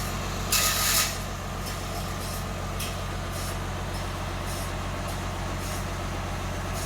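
Sawmill engine running steadily with a low hum, with a short loud hiss about half a second in.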